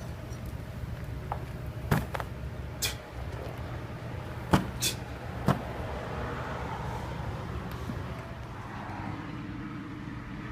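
Car engine idling with a steady low hum, broken by a handful of sharp knocks or clacks about two to five and a half seconds in.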